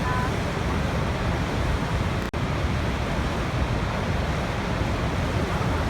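Steady rushing of a waterfall, an even wash of falling water, broken by a split-second dropout a little over two seconds in.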